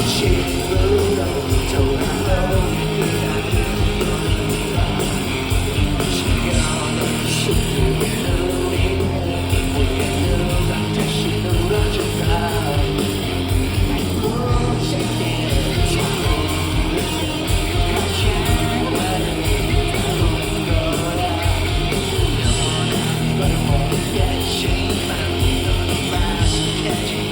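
Rock band playing a song: electric guitars, bass and drums, with a singer's vocal line over them.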